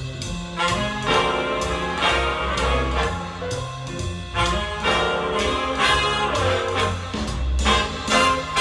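Brass-led music with a strong bass line, played back through a pair of small LS3/5a monitor loudspeakers and picked up by a microphone in the room.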